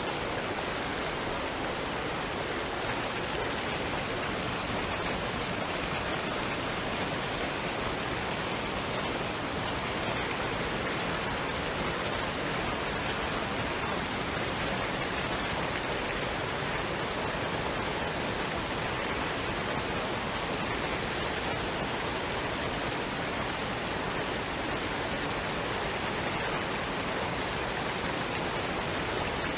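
Waterfall and stream water rushing in a steady, unchanging wash of noise.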